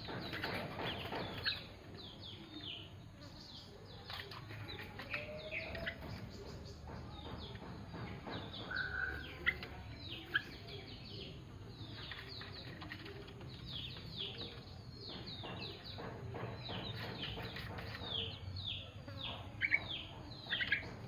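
Songbirds chirping: a busy run of many short, quickly falling chirps with a few sharp clicks, thickest near the end.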